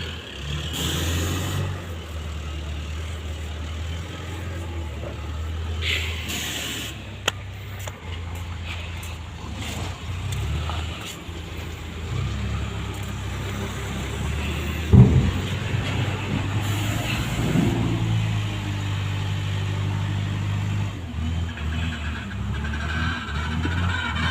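A small loader's engine runs steadily while working, with a sharp click about seven seconds in and a loud knock about fifteen seconds in.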